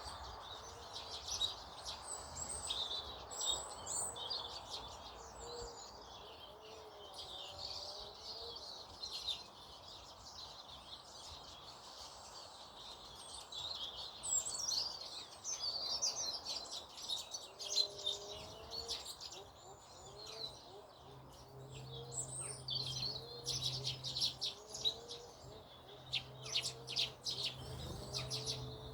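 A mix of small birds chirping and twittering, with fainter, lower repeated calls among them. A low steady hum joins about two-thirds of the way through.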